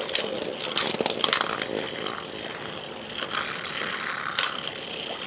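Beyblade spinning tops whirring in a stadium, with a rapid run of sharp clacks as they hit each other and the walls in the first second or so, and one more clack near the end.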